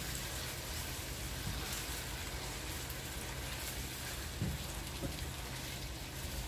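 Sliced onions, grated ginger and garlic and whole spices sizzling steadily in hot oil in a pot while being stirred with a silicone spatula, with a couple of soft spatula knocks a little past the middle.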